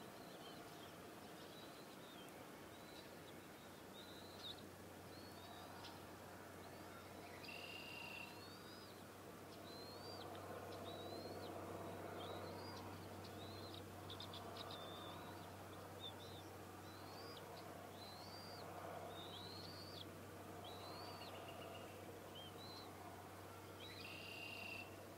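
Faint bird calls: short high chirps repeated about once a second, with two harsher, buzzier calls about eight seconds in and near the end, over a low steady hum.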